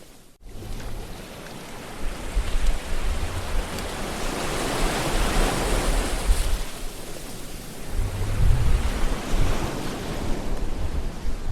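Ocean surf: waves washing and breaking on the shore in a continuous hiss that swells and ebbs. The sound cuts out almost completely for a moment just after the start.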